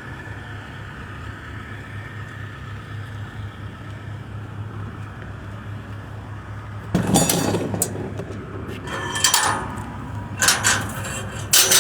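A steady low hum, then from about seven seconds in four short, loud clattering knocks, the loudest first, like hard objects or gear being handled and set down.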